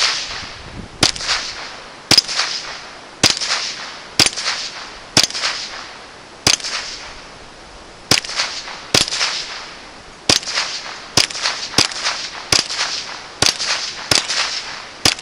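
Marlin Model 60 semi-automatic .22 rifle fired about fifteen times, roughly one shot a second and quickening near the end, each sharp crack trailed by a short echo. The rifle cycles every Federal Lightning round without a jam or misfeed.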